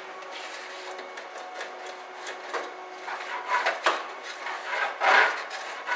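Irregular rubbing and scraping as a line is worked in a car's fuel tank, louder and busier in the second half.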